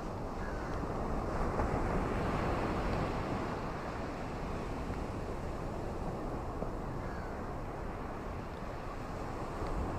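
Ocean waves washing on a shore: a steady rushing wash that swells a little between about one and three seconds in.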